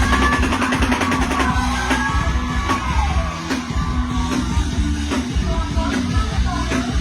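Live mor lam band music: a steady drum-kit and bass beat with a gliding sung or lead melody line over it.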